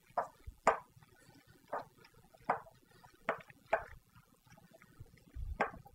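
Salad being tossed in a bowl: chopped romaine lettuce and tomato chunks rustling and slapping as they are turned over, in short irregular strokes about once or twice a second, with a dull thump near the end.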